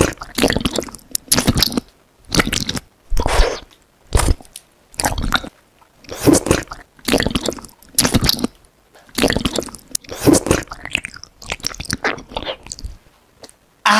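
Biting and chewing a giant gummy bear: wet mouth sounds from tearing off and chewing the gummy, coming one or two a second and stopping near the end.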